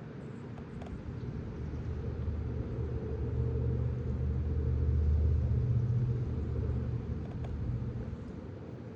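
A low rumble that swells for about five seconds to a peak near the middle, then fades away.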